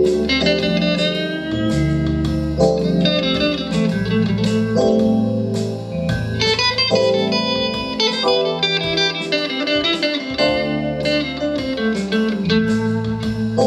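Live band playing an instrumental jazz-blues intro: an electric guitar picks a melody with bent, sliding notes over a steady bass line, with a regular ticking beat.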